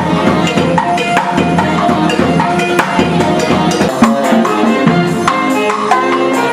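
A live band playing up-tempo music, with quick, regular percussion strikes over pitched instruments and a bass line that drops out about four seconds in.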